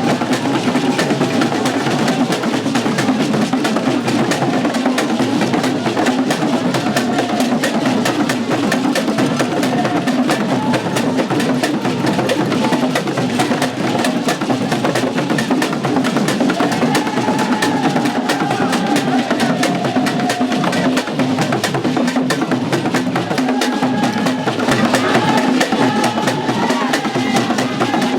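Drum and percussion music with a fast, dense beat of sharp wooden-sounding strokes, and a wavering melody line above it.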